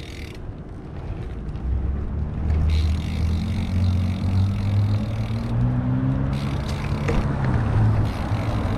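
Car engine running close by, growing louder from about two seconds in as it comes up behind the bikes, its pitch shifting slightly as it goes.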